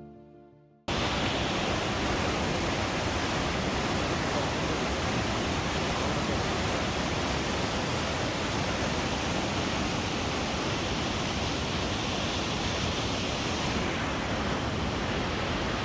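Dense, steady rush of water, cutting in abruptly about a second in.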